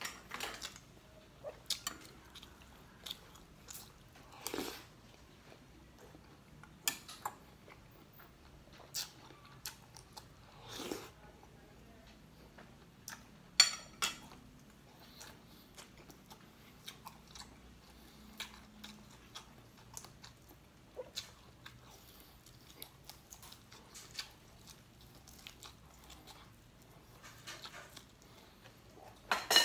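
A person biting into and chewing crispy fried duck, with irregular crunches and mouth clicks.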